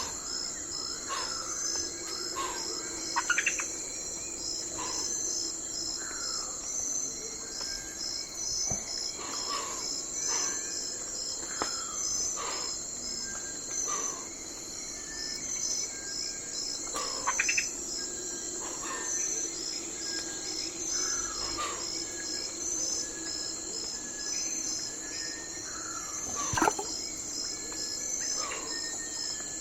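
Night forest ambience: a steady, high, rapidly pulsing chorus of crickets and other insects, with short sweeping bird calls every second or two. The loudest calls come about three seconds in, near the middle and near the end.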